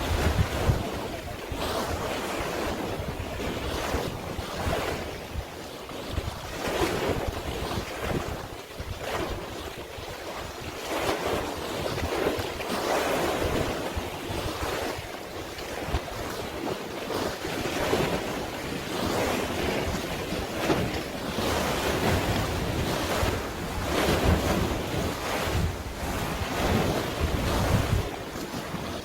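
Sea waves washing in repeated surges every few seconds, with wind buffeting the microphone in low rumbling gusts.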